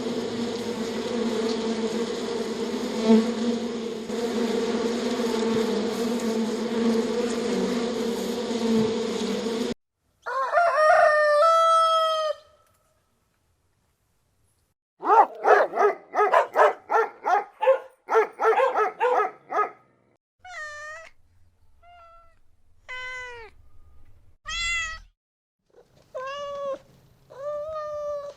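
An insect buzzing steadily for about ten seconds, cutting off suddenly. Then a string of separate animal calls follows: one drawn-out call, a quick run of about a dozen short calls, and a cat meowing about six times near the end.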